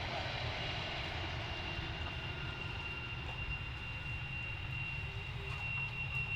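Distant jet aircraft engine running with a steady high-pitched whine, its broader roar fading slightly over the first few seconds. A choppy low rumble lies underneath.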